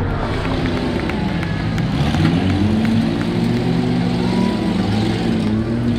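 Demolition derby cars and pickups running hard as they shove against each other and pull apart, several engines revving with their pitch rising and falling.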